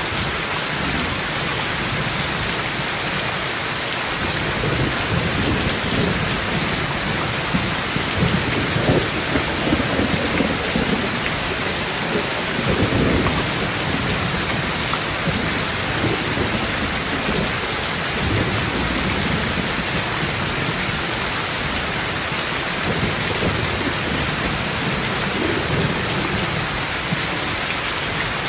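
Thunderstorm: steady heavy rain hissing, with thunder rumbling low from about four seconds in, loudest around nine to thirteen seconds, then dying away near the end.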